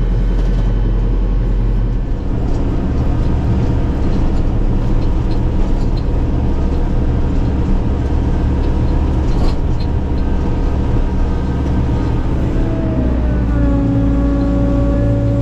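Kubota tractor's diesel engine running under load during a test run with a loader-mounted snow pusher box. Its sound changes about two seconds in, and a steady whine joins near the end.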